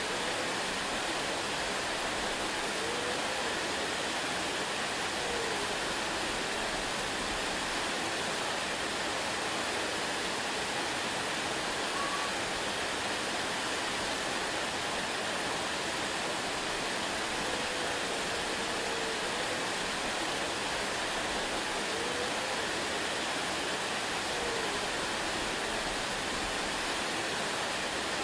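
Waterfall: a steady, even rush of falling water with no change in level, with a few faint short wavering tones now and then.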